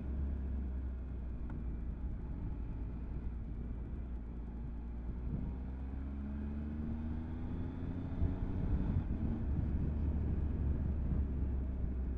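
Motorcycle on the move with heavy wind rumble on the helmet microphone; about halfway through the engine note rises steadily as the bike accelerates, then sinks back under the wind.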